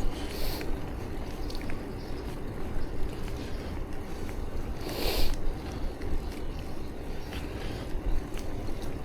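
Steady wind-and-riding noise on a bicycle rider's action-camera microphone, a low rumble with a hiss over it. Two brief louder hissing gusts come about half a second in and about five seconds in.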